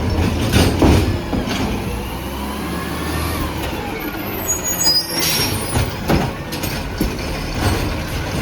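Autocar ACX garbage truck with a McNeilus ZR automated side loader working, its diesel engine running steadily. Metal clunks and knocks come through at intervals, with a gliding whine early on and a loud hiss of air about five seconds in.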